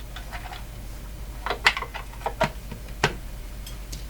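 Small hard objects being handled and set down on a workbench: a cluster of sharp clicks and knocks about a second and a half in, then a few more single knocks, over a low steady hum.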